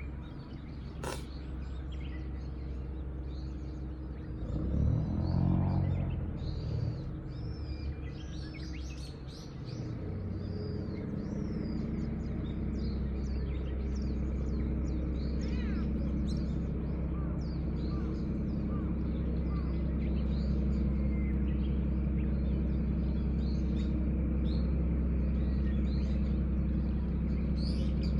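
Small songbirds chirping and twittering in many short high calls throughout. Under them runs a steady low hum that swells briefly around five seconds in and settles louder from about ten seconds on. There is a sharp click about a second in.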